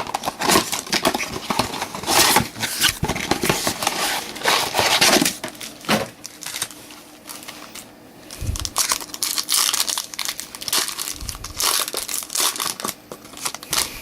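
Wrapping on a Topps Chrome trading card blaster box and its packs being torn open by hand, with crinkling and crumpling in irregular bursts. There is a quieter stretch around the middle.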